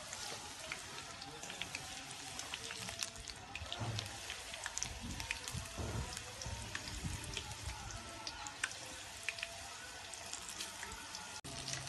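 Stuffed okra frying in hot oil in an aluminium kadai: a steady sizzle with frequent small crackles and pops.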